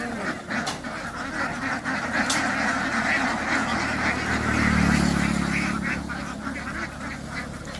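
A flock of ducks quacking together in a dense, continuous chatter. A low drone swells and fades about halfway through.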